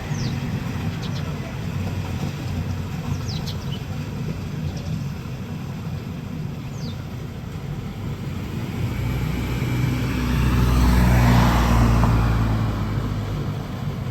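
Steady low rumble of road traffic, with a vehicle passing and growing loudest about ten to twelve seconds in before fading.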